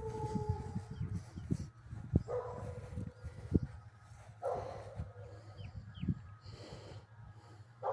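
Dog whining in repeated drawn-out cries, one about every two seconds, each starting sharply and sliding slightly down in pitch, over low rumble and scattered thumps.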